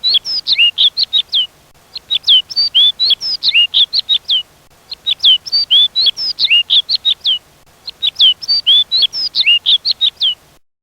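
A small songbird singing: four phrases of quick, sharply slurred whistled chirps, each lasting about two seconds with short pauses between them. The song cuts off abruptly near the end.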